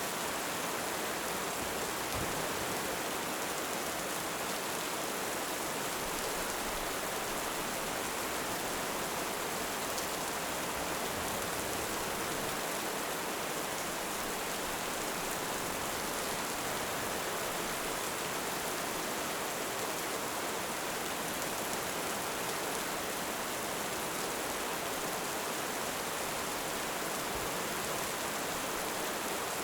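Heavy rain falling steadily, an even hiss with no rises or breaks.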